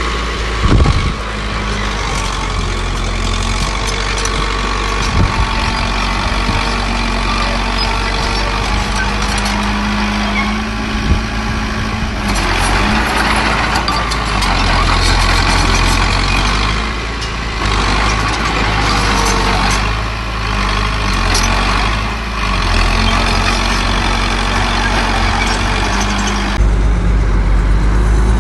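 Diesel engines of a small bulldozer and dump trucks running steadily as earthmoving work goes on, with a few sharp knocks and the low rumble growing louder near the end.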